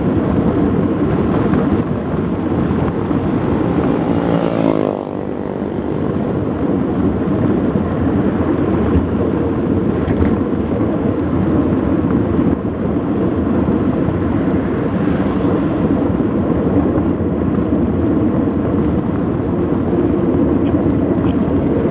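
Steady, loud rushing noise of wind and movement on a camera carried while mountain biking, with a falling pitched tone sweeping through about four to five seconds in.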